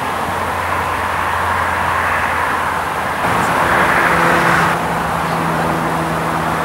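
A TER multiple unit running as it comes round a curve, then, after an abrupt change about three seconds in, the steady engine hum of an approaching diesel locomotive.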